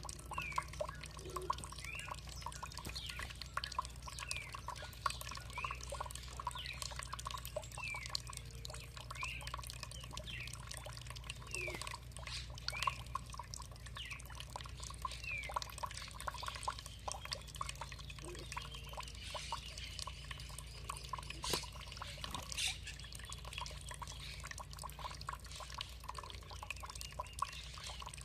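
Water trickling and dripping, with a bird calling in short falling chirps about once a second, then a thinner, longer high note in the second half. A steady low hum runs underneath.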